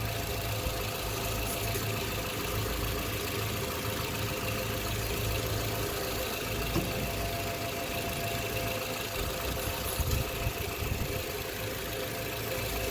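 2012 Toyota RAV4 engine idling steadily while the transmission fluid level is being checked.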